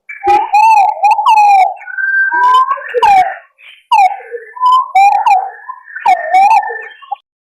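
Green pigeons (punai) giving warbling, whistled calls, several voices overlapping, played loud as a hunting lure recording. The calls start suddenly out of silence and break off shortly before the end.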